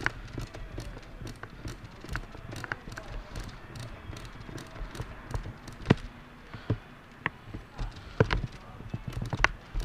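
Irregular footsteps and scattered sharp clicks and knocks as an airsoft player moves about, with a low rumble of movement and handling throughout.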